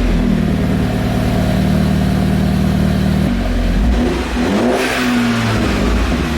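Mini Cooper S F56's turbocharged four-cylinder engine running through a newly fitted budget aftermarket exhaust system, idling and then revved briefly about four and a half seconds in, the pitch rising and falling back.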